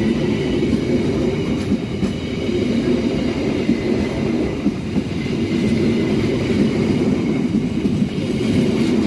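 Passenger train passing close by: a steady, loud rumble of wheels on the rails that holds throughout.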